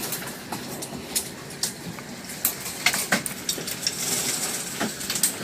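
Wind-blown debris ticking and clinking irregularly against the building, a few sharp taps a second, over a steady rush of tornado wind.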